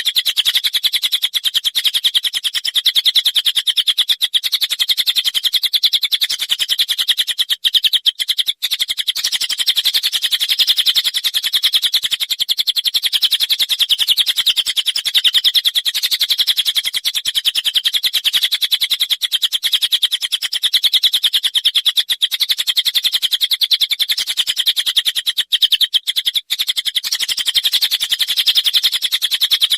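A songbird chirping rapidly and without a pause, a fast run of high, closely spaced notes. It breaks off briefly twice, about a third of the way in and near the end.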